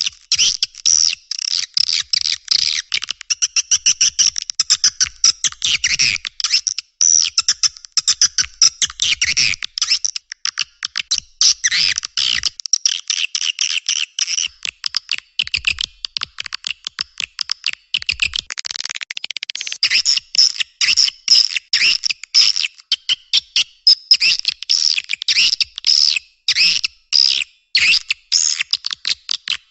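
Recorded twittering calls of edible-nest swiftlets: a dense, unbroken run of rapid high chirps, thin with no low end. This is a swiftlet lure call, played to draw swiftlets into a nesting house.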